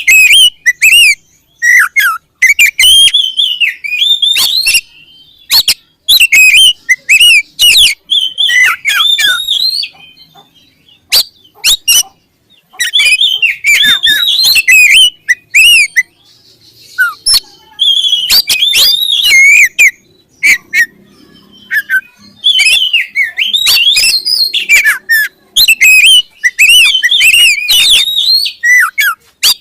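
Oriental magpie-robin (kacer) singing: loud, rapid whistled phrases that glide up and down, delivered in bursts of a second or two with short pauses. Sharp clicks are mixed in.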